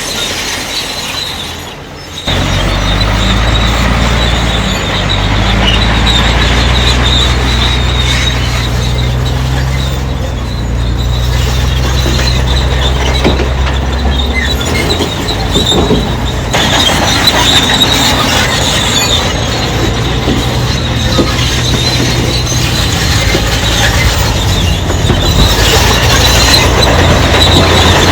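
Crawler bulldozer working: its diesel engine runs with a deep drone under load while the steel tracks squeal. The engine comes in sharply about two seconds in and is strongest until about fifteen seconds, then eases while the squeal continues.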